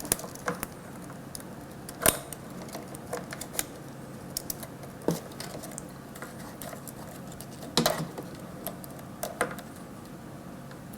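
Scattered light plastic clicks and taps of a nylon zip tie being threaded and pulled tight, at irregular intervals, with two sharper clicks about two seconds in and near eight seconds.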